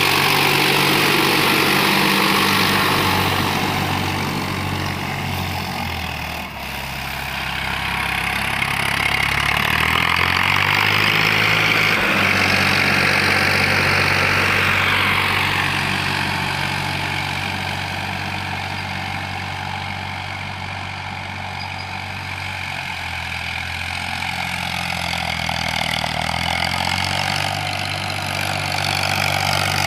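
Farmtrac 60 PowerMaxx tractor's diesel engine running steadily under load while pulling an 8×8 disc harrow. The sound grows fainter and louder again twice as the tractor moves farther off and back.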